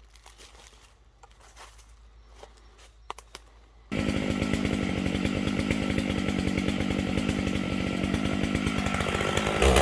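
A two-stroke chainsaw comes in suddenly about four seconds in and runs steadily at a constant engine speed, not yet revved. Before it there are only faint rustles and a few light clicks.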